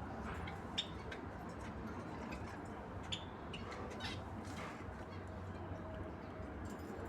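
Pet lovebirds giving a few short, sharp chirps, spaced a second or more apart, over a steady low hum.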